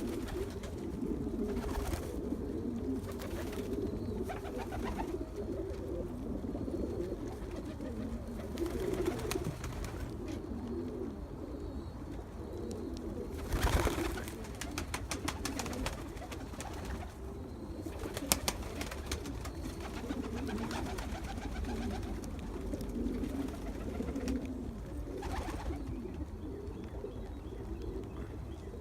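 Pigeons cooing steadily, several voices overlapping, with scattered short clicks and rustles; a louder burst of noise about 14 seconds in.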